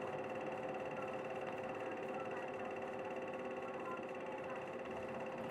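Kanto Bus 1900-series city bus heard from inside the cabin: a steady engine and running drone holding an even pitch throughout.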